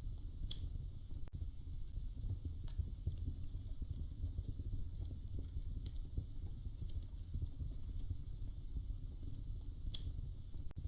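Wood fire crackling in a fireplace: a steady low rumble of burning with a sharp pop or crackle every couple of seconds.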